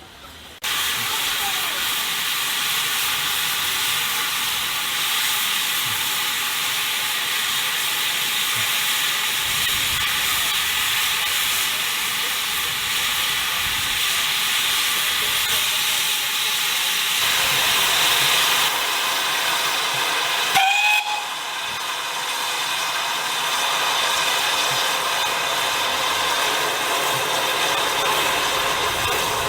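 Steam locomotive letting off a loud, steady hiss of steam that starts abruptly and holds almost unchanged, with a brief break and a short rising squeak about two-thirds of the way through.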